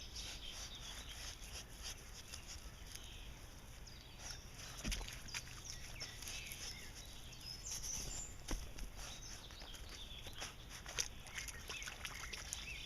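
Birds chirping, with scattered faint scrapes and knocks, a few louder ones about five, eight and eleven seconds in.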